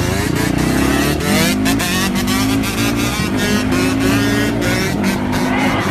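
Motorcycle engine revving hard, its pitch climbing and dropping several times, with repeated sharp cracks throughout.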